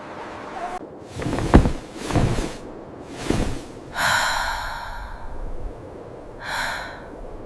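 A series of breathy snorts and huffs, several with a low thud beneath them, then two longer hissing puffs about four and six and a half seconds in.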